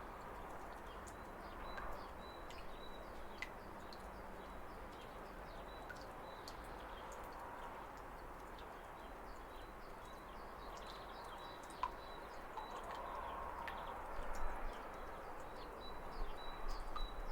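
Steady rush of falling water with birds chirping over it, one bird repeating a short high note at the same pitch. The sound grows louder and uneven about fourteen seconds in and again near the end.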